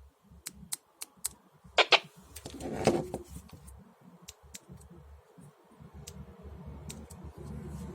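Light clicks of a Baofeng handheld radio's keys being pressed and the set being handled, with a louder rustle about two to three seconds in. No key beep or audio comes from the radio's speaker, which is the fault being shown.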